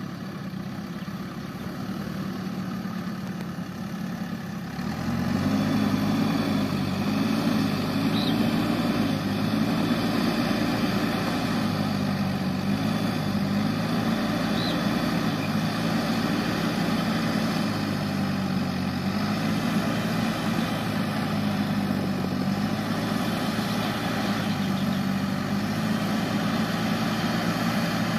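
Heavy diesel engine running steadily, then about five seconds in it picks up and works harder, its pitch rising and falling in slow swells as it labours under load.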